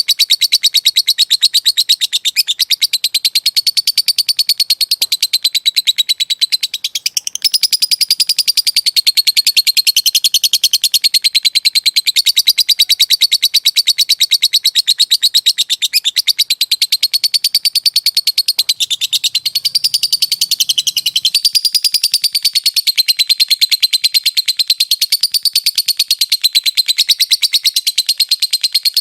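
Lovebird giving its long, unbroken 'ngekek' chatter: a very fast, high-pitched ticking trill ('ngetik') held on and on, with only a brief catch about seven seconds in.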